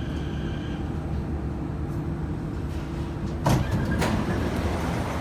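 Inside a CT251 metro train car: a steady low rumble, with a whine from the train that fades out about a second in. Then two sharp knocks come half a second apart.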